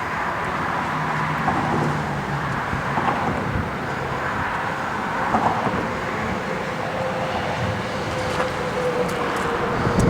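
Steady background rumble like vehicle traffic, with a faint steady hum coming in about halfway through.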